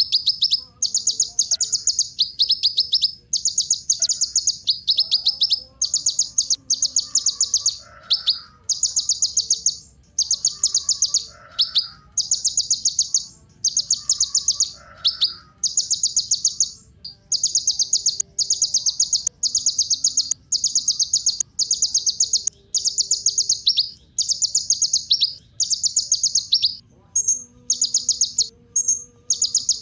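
Kolibri ninja, a small sunbird, singing high, fast, buzzy trills in short phrases of under a second, repeated about once a second with brief gaps.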